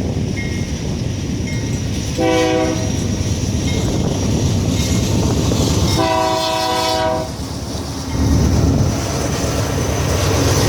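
Diesel locomotive air horn sounding two blasts, a short one about two seconds in and a longer one about six seconds in, each several tones at once. Under them a diesel locomotive's engine rumbles steadily, growing louder near the end.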